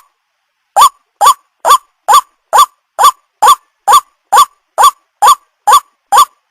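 White-breasted waterhen (ruak-ruak) calling: a steady run of short identical notes, a little over two a second, each rising in pitch and then dropping. The run begins after a short silence, just under a second in.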